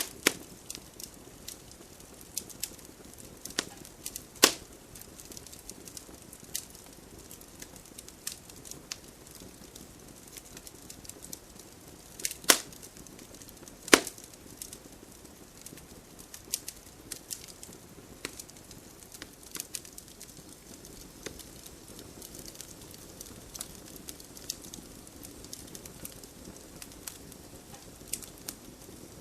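Wood campfire crackling: frequent small pops and snaps over a soft steady hiss of the flames, with three much louder snaps, one about four seconds in and two close together past the middle.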